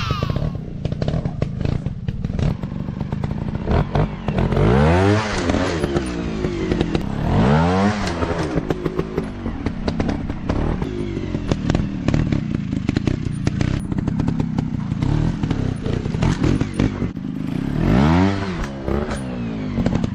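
Dirt bike engine running and revving, its pitch rising and falling three times, with clattering and knocks throughout.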